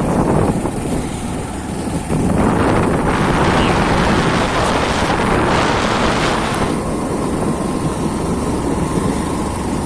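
Off-road motorcycle running with wind buffeting the microphone as it rides, a louder hissing rush from about two seconds in until about seven seconds in.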